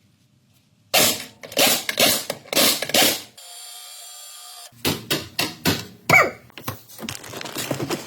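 A rapid series of mechanical knocks and clatter, as from hand tools being worked, broken about halfway by a steady hiss lasting just over a second.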